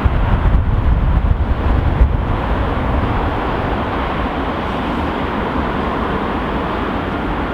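Steady, loud vehicle noise, with gusty low rumble from wind on the microphone in the first two seconds or so.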